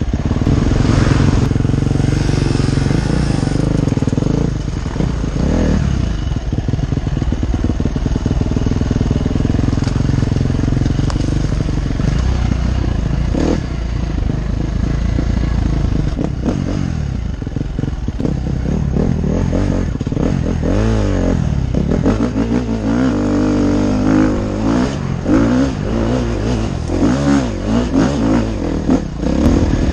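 Enduro motorcycle engine running hard under load, its revs repeatedly rising and falling, most sharply in the second half.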